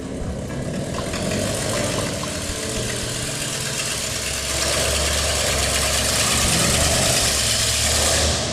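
The 1963 Ford Thunderbird's 390 cubic-inch FE big-block V8 running, getting louder about halfway through and cutting off abruptly at the end.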